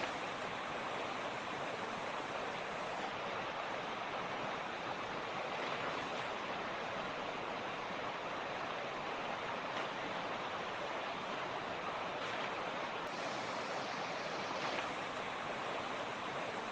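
Mountain creek rushing over rocks, a steady, even rush of water.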